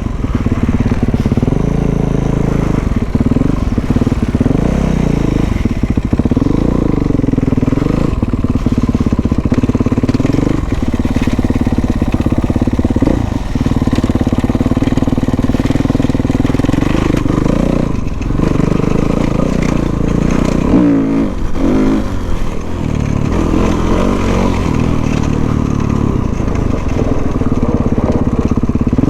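Dirt bike engine running under way, its pitch rising and falling again and again as it revs up and eases off.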